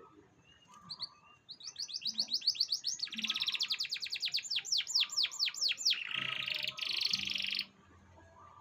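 Domestic canary song: a fast run of repeated falling whistled notes, then a harsh buzzing trill that stops suddenly about a second before the end.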